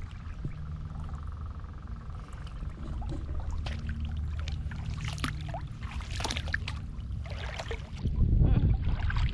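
Boat under way: a steady low engine hum, with water splashing against the hull now and then and a louder rush of water or wind near the end.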